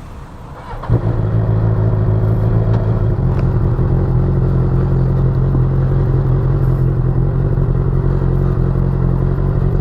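A motorcycle engine starts with a sudden burst about a second in and then idles steadily and loudly.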